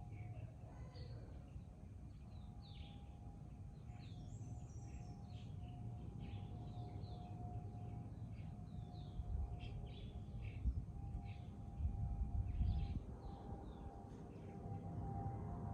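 Many small birds chirping and twittering in quick short calls, over a steady low background rumble that swells briefly about twelve seconds in.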